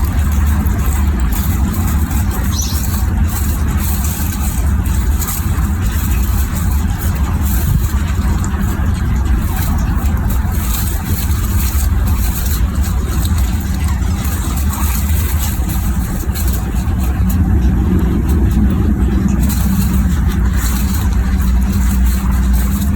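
A cat's steady, continuous low purr, close to the microphone, with a brief rise in pitch about three-quarters of the way through.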